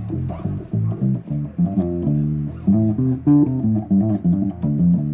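Bass guitar played solo, a quick riff of plucked single notes, several a second, moving up and down in the low register.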